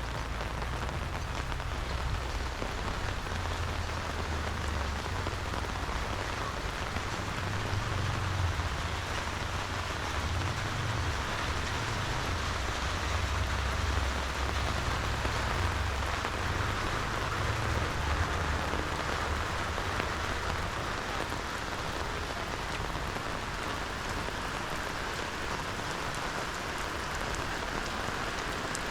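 Steady rain falling, an even hiss throughout, with a low, uneven rumble underneath.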